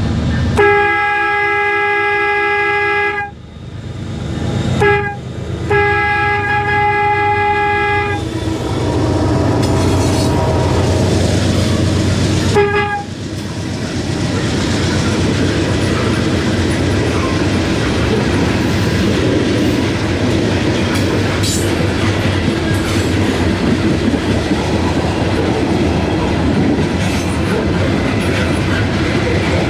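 Train air horn sounding a chord of several tones in blasts: a long blast, a short one, a second long blast, then a brief toot a few seconds later. A Norfolk Southern freight train then rolls past with a steady rumble, its wheels clacking over the rail joints.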